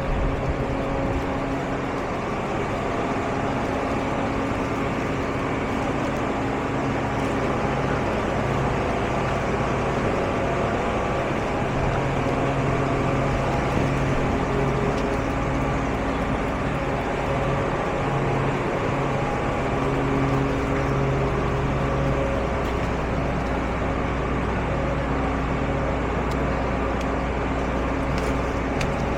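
A vehicle engine running steadily with a low hum whose pitch shifts slightly, over a constant noise haze.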